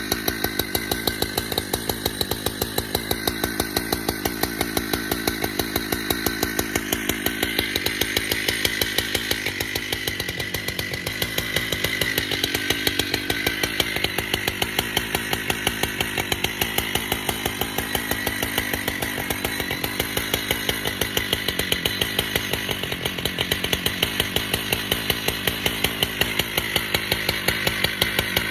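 Husqvarna chainsaw running hard, cutting through a red oak log.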